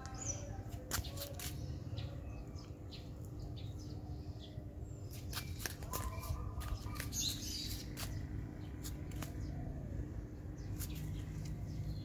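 Small birds chirping in short, sharp calls scattered through the clip, over a low steady rumble.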